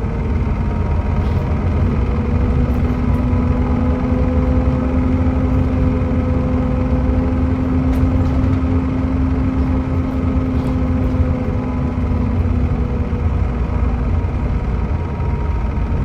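Volvo B7TL double-decker bus running under way, its Volvo D7C 7.3-litre diesel engine and ZF Ecomat six-speed gearbox giving a heavy low rumble. A steady whine sits on top and fades out near the end.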